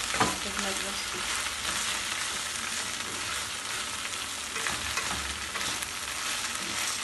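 Cut okra frying in a little oil in a non-stick pan, sizzling steadily, while a wooden spatula stirs it and scrapes and knocks against the pan. The knocks are sharpest just after the start and again about five seconds in.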